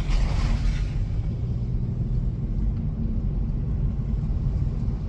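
Steady low rumble of a 2018 Hyundai Elantra 2.0's engine and tyres heard inside the cabin while driving on a snowy, icy street, with a brief hiss in the first second.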